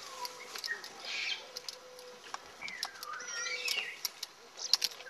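Birds chirping, a quick run of rising and falling chirps about three seconds in, over scattered sharp clicks and crackles.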